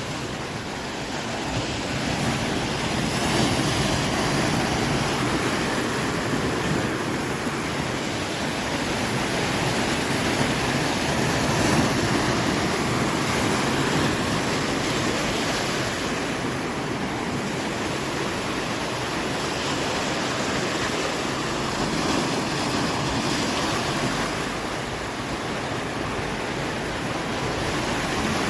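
Large ocean swell waves breaking and surging against the shore: a continuous rush of surf that swells and eases with each wave.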